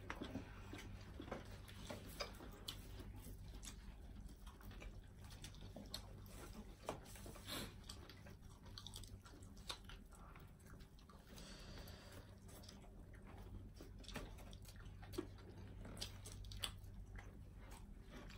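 Faint chewing, biting and mouth smacks from several people eating fried chicken and fries by hand, with scattered small clicks over a low steady hum.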